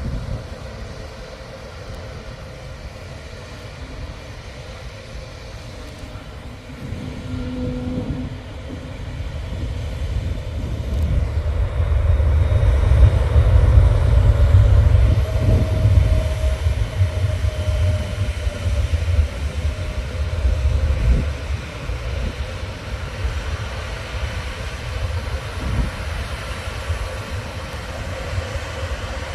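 Jet airliner passing low overhead on its landing approach: a low engine rumble swells to a peak about halfway through, then slowly fades as the aircraft moves away.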